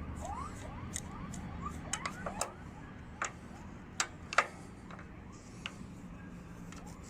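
Wrench working the rear axle nut of a Kawasaki KH125 motorcycle loose: a handful of sharp, separate metallic clicks and clinks, the loudest about two and four seconds in, over a low steady hum.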